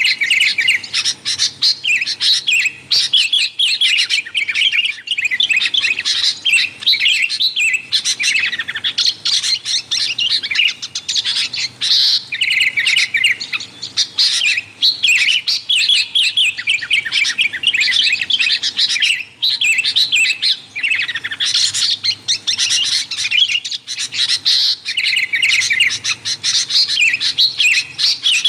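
Sooty-headed bulbuls chattering without pause: a dense, busy stream of quick, bright notes.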